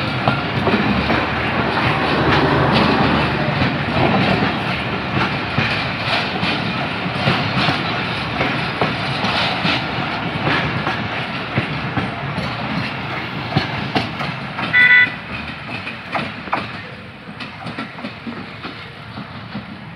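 Passenger train coaches rushing past close by, the wheels clattering over the rail joints in a rapid run of clicks. A short high toot about fifteen seconds in, then the rail noise fades.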